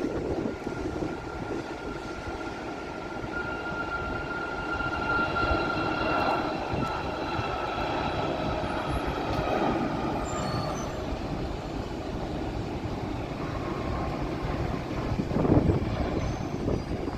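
Jet airliner engines passing: a steady high whine over a broad rumble, swelling about six seconds in and fading away, with a brief louder surge near the end.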